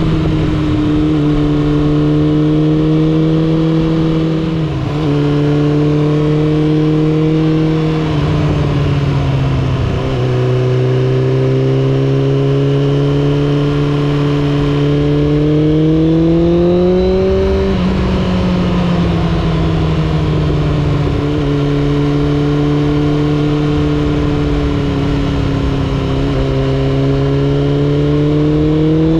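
Suzuki GSX600F cafe racer's inline-four engine and exhaust under way, holding a steady note with short dips in pitch about five and ten seconds in. The engine pitch climbs at about fifteen seconds, falls away sharply at eighteen, and climbs again near the end.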